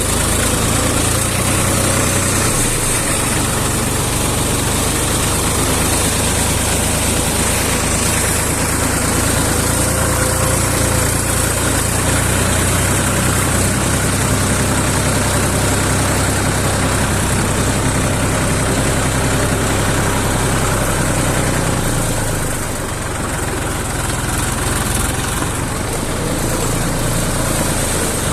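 Tractor engine running steadily at low revs, easing slightly about three-quarters of the way through.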